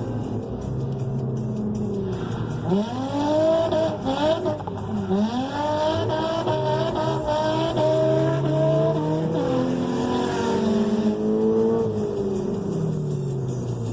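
A drift car's engine revving hard, its pitch sweeping up and down over and over, with tire squeal as it slides through a corner; near the end the engine note rises and falls away as the car goes past.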